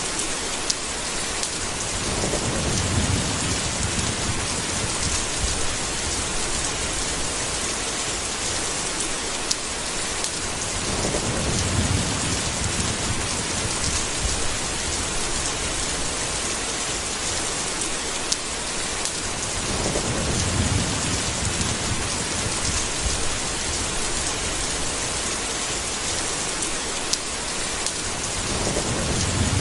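Steady heavy rain hiss with low rolls of thunder about every nine seconds, four times in all, and a few sharp drip ticks.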